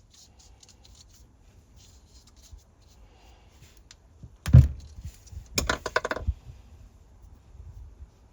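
Work noises in a small room: a single loud thump a little past halfway, then a quick rattle of sharp clicks about a second later, over faint scattered ticking.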